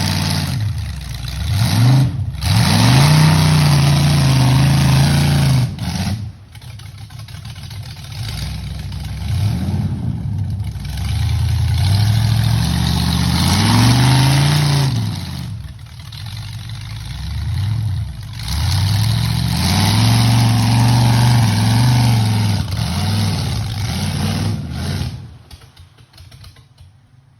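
Old Jeep CJ's engine revving hard again and again while mudding, its pitch climbing and falling in repeated surges, with a loud rushing noise over it. The sound drops away near the end.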